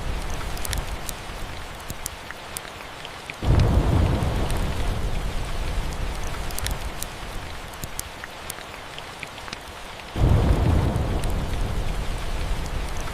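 Steady rain with two sudden rolls of thunder, one about three and a half seconds in and one about ten seconds in, each dying away over a few seconds. Scattered sharp crackles of a wood fire sound over the rain.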